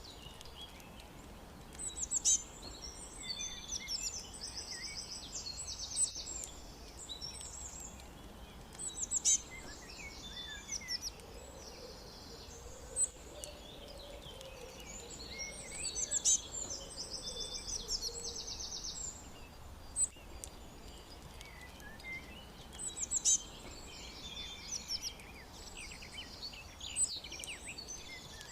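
Songbirds chirping and singing, with a bright phrase of quick trills coming back every three to four seconds. A faint steady low rumble runs underneath.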